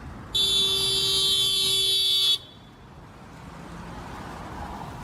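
A car horn blown in one steady blast of about two seconds, over the low rumble of a car driving on the road.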